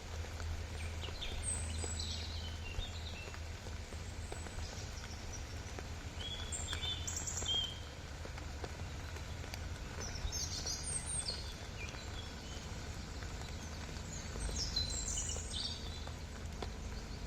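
Small birds calling in short chirping phrases every few seconds over a steady low rumble.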